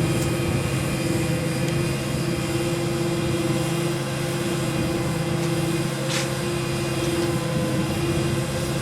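Steady machine drone holding one constant pitch, with a light click about six seconds in.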